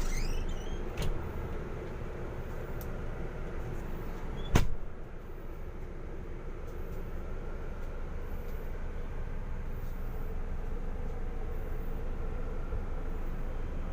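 Steady low hum inside the cabin of a parked Scania K410iB double-decker bus, with a single sharp knock about four and a half seconds in.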